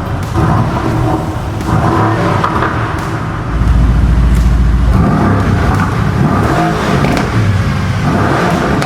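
Performance car's exhaust as the engine revs and accelerates, its pitch rising and falling, loudest from about three and a half to five and a half seconds in.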